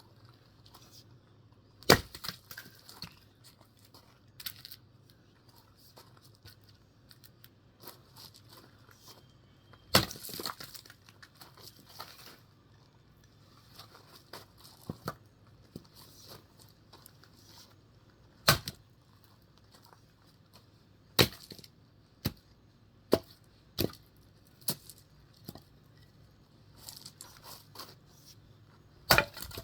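Axe splitting firewood: sharp chopping strikes every few seconds, some followed by the crack of the log splitting apart.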